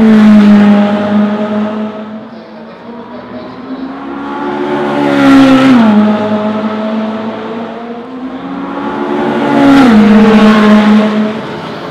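Ferrari 458 Speciale's naturally aspirated flat-plane V8 under hard acceleration. It swells three times, rising in pitch to a loud peak where a quick upshift drops the pitch, then fades.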